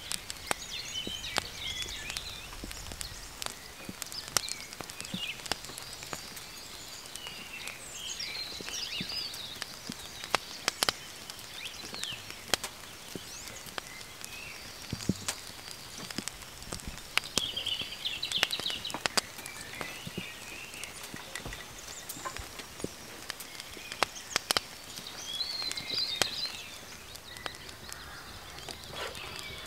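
Songbirds singing in the woods in short warbling phrases every several seconds, over a faint steady hiss. Scattered sharp ticks and pops run throughout.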